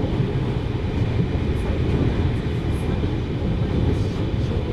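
Running sound inside a 733 series electric train cabin at speed: a steady low rolling noise from the wheels and running gear.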